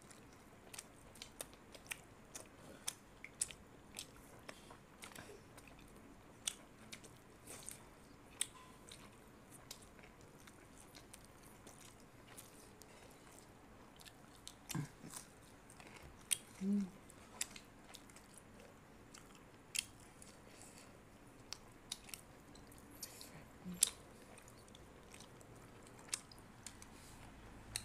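Faint chewing and biting of mutton curry and roti eaten by hand, with many short wet mouth clicks and smacks scattered throughout and a few brief low murmurs past the middle.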